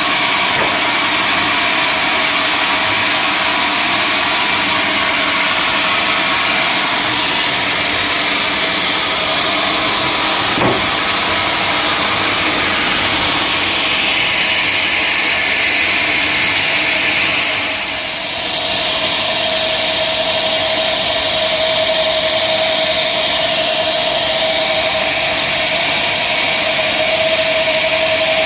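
Sawmill machinery running steadily while sawing acacia wood, a loud continuous mechanical drone with a whine. About two-thirds of the way through the level dips briefly, and after that a steady whine comes through more strongly.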